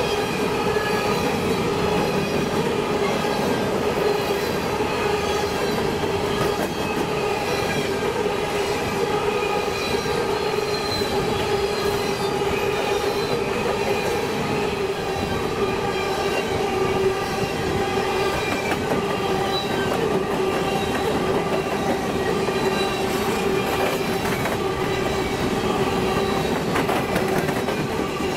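Freight train cars rolling past with steady, slightly wavering wheel squeal, several shrill tones held together over the rumble of the wheels on the rails.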